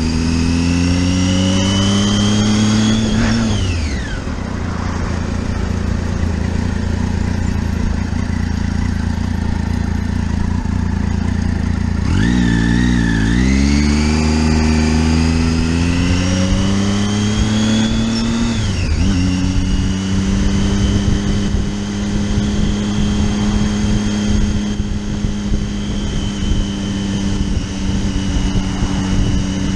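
Motorcycle engine under way. It climbs in revs and drops sharply at a gear change early on, runs steadily, dips and then climbs again through the middle, drops at another shift, and then holds a steady cruise. A steady rush of wind and road noise runs under it.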